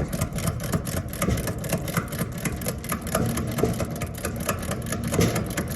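Ratchet wrench clicking rapidly and evenly, about seven clicks a second, as it turns an air-conditioner's refrigerant service valve stem partway closed.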